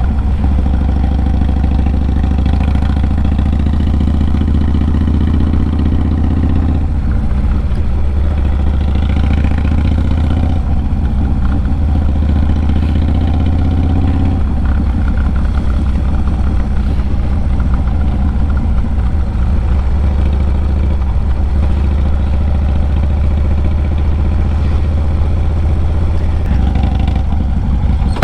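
Harley-Davidson Low Rider S's 110 cubic-inch V-twin running through a Sawicki Speed 2-into-1 exhaust, a steady, loud, deep note that shifts in pitch in steps several times.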